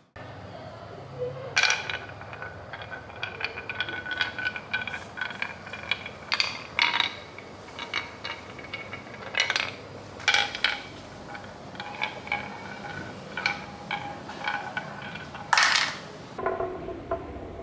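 Many small hard objects clicking and clinking against each other in an irregular patter, some strikes ringing briefly, with a louder clatter about a second before the end.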